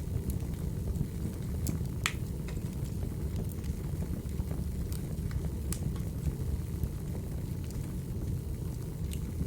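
Crackling wood fire: a steady low rumble with scattered sharp pops and snaps of burning firewood, the loudest about two seconds in.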